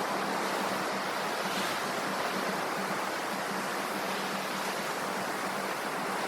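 Sea surf washing on the shore: a steady, continuous hiss of waves.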